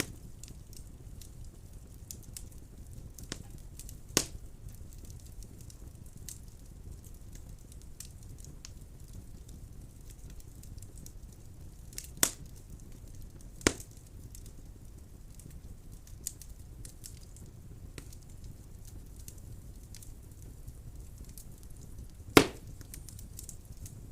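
Wood fire burning in a fireplace: a low steady rumble of flame with faint scattered crackles and a few sharp loud pops, the loudest near the end.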